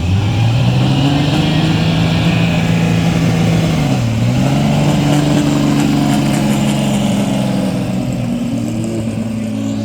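A car engine under throttle: its pitch climbs in the first second, holds, drops about four seconds in, then climbs and holds again, with a couple of short revs near the end.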